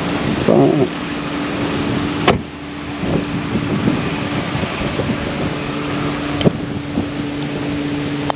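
Wind noise on the microphone over a steady low hum, with a short louder patch about half a second in and two sharp clicks.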